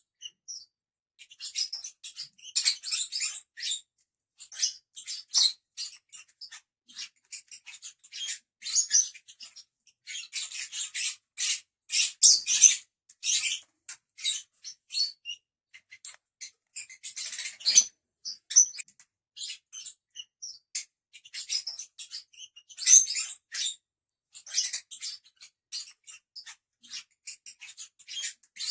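Lovebirds giving rapid, high-pitched chirps and squeaks in bouts of a second or two, with short pauses between.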